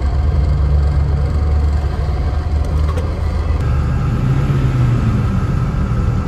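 Suzuki Samurai's engine running steadily off-road, its pitch shifting slightly about three and a half seconds in.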